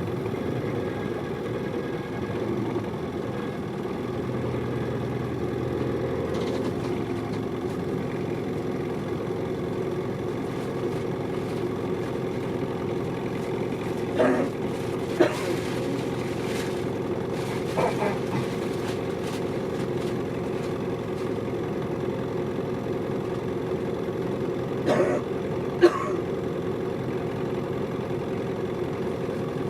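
Hino Liesse small bus's diesel engine running steadily, heard from inside the cabin. A few brief sharp sounds come about halfway through and again near the end.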